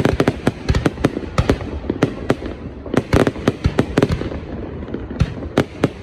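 Fireworks display: a rapid, irregular run of sharp bangs and cracks, several a second, over a continuous rumble from the bursting shells.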